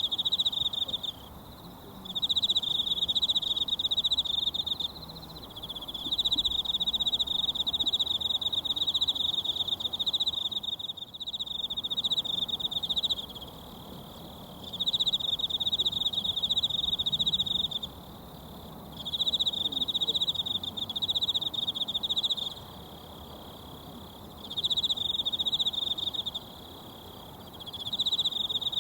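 An insect trilling loudly and high, in stretches of several seconds broken by pauses of about a second, over a mountain stream running as a faint steady rush.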